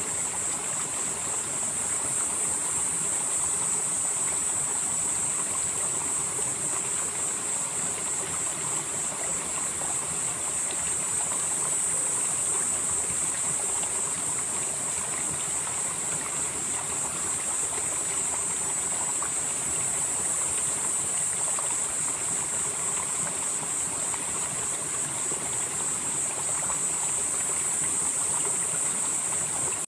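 Valley stream flowing steadily, with a constant rush of water. A high-pitched hiss sits above it, swelling and easing a few times.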